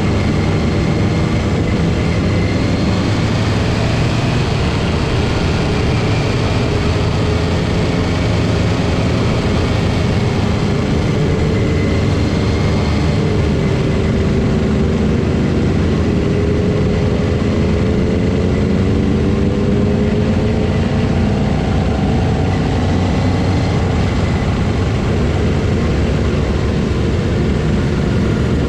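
Motorcycle engines running steadily during a group ride, their pitch drifting slowly up and down with speed over a constant rushing noise.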